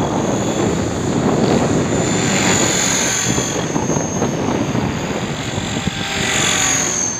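450-size electric RC helicopter in flight: its motor and main rotor make a steady chopping whir with a high whine that swells twice as it manoeuvres.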